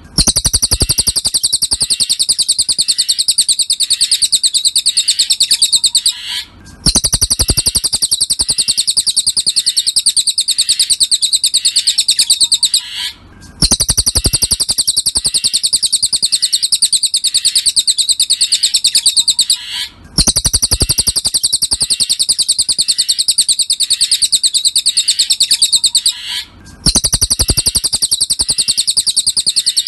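Cililin songbird singing, from a looped masteran (tutor) recording used to train cage birds: a fast, high-pitched chattering trill in long phrases of about six and a half seconds, each broken by a brief pause. Each phrase opens with a low rumble.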